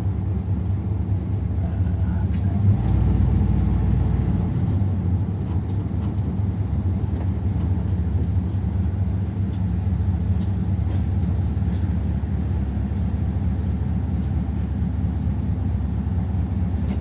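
1957 Ford Thunderbird's Y-block V8, on a two-barrel carburettor, running at low speed with a steady low hum; a deeper, louder rumble swells briefly about three seconds in.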